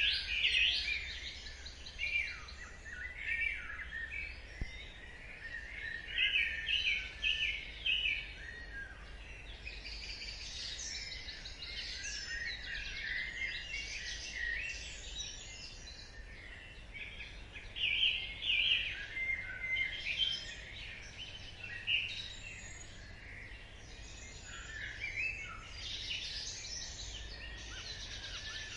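Dawn chorus: several songbirds singing and chirping at once, with repeated trills and quick chirps overlapping.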